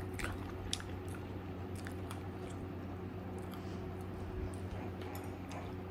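Someone chewing crispy fried chicken, with scattered small crunches and mouth clicks over a steady low hum.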